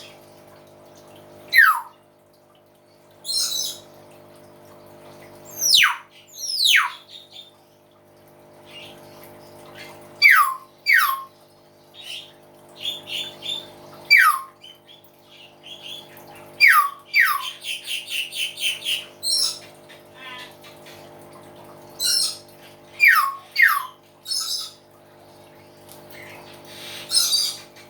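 Hill myna calling loudly: about ten sharp whistles that each sweep steeply down from high to low pitch, several in pairs, with bursts of rapid chattering notes between them, over a steady low hum.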